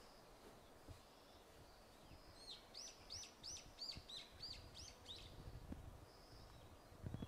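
A small bird singing a quick run of about ten repeated high notes, roughly three a second, over faint background ambience.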